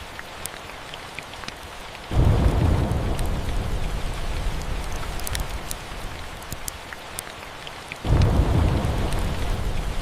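Steady rain with two rolls of thunder, one starting about two seconds in and another about eight seconds in, each a sudden low rumble that slowly fades under the rain.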